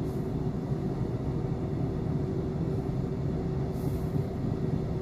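Running noise of a passenger coach heard from inside: a steady rumble of the wheels on the track with a constant hum.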